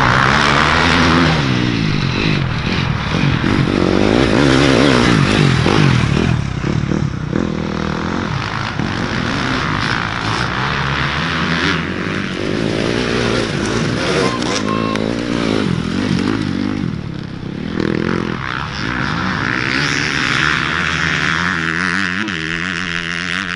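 Several dirt bike engines racing, their pitch climbing and dropping again and again as the riders rev through the gears and back off, with overlapping engine notes from more than one bike.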